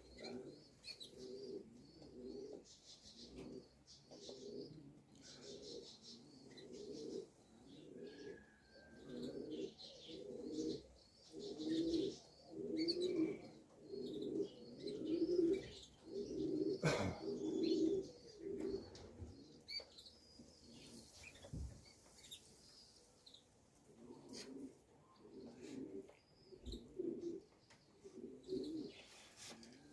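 Racing pigeons cooing over and over in a run of low, pulsing calls that is loudest in the middle stretch, with small birds chirping higher up. A single sharp click comes about 17 seconds in.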